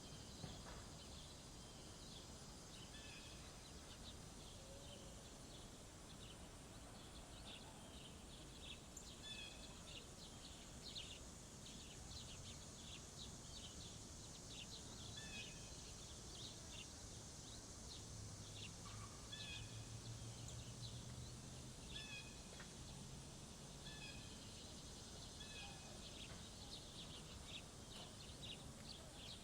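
Small songbirds chirping repeatedly at a bird feeder, with short, high chirps scattered throughout over a steady outdoor hiss. A faint low hum rises and fades away in the middle.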